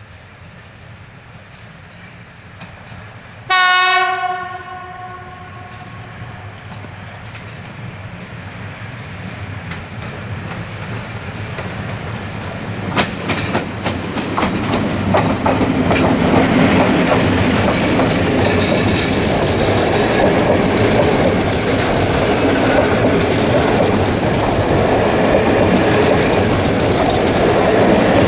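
A train horn sounds one short single-tone blast, then a train approaches and runs past, growing louder, its wheels clattering over rail joints.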